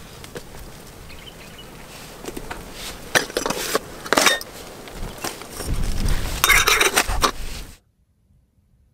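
Cookware and utensils clinking and clattering in several bursts of sharp knocks, busiest and loudest near the end, then cutting off suddenly.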